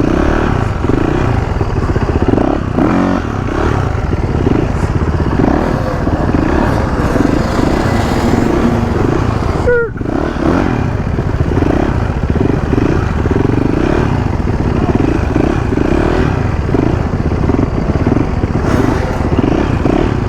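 Motorcycle engine revving up and falling back over and over as the rider works the throttle through tight circles, with a brief drop and a quick rising rev about ten seconds in.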